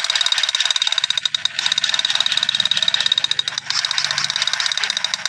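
Battery-powered toy gun firing its electronic rapid-fire sound effect: a loud, fast rattle of pulses with a shrill steady tone running through it.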